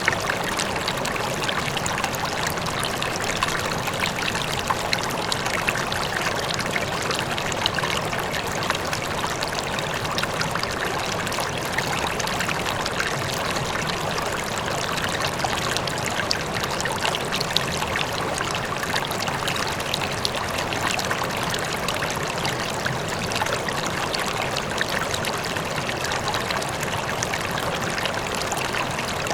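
River water flowing steadily over rocks, a continuous rushing and babbling with small splashes throughout.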